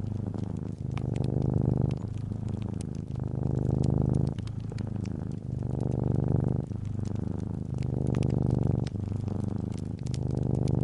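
Calico cat purring steadily, the purr swelling and easing with each breath about every two seconds. Faint fireplace crackles tick over it.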